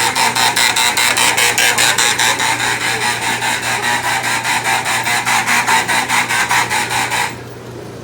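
A harsh, rapidly pulsing alarm buzzer going off, about six or seven rasping pulses a second, cutting off suddenly near the end.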